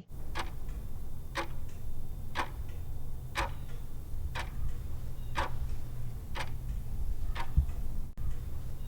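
Clock-ticking countdown sound effect, one tick a second, over a low steady hum.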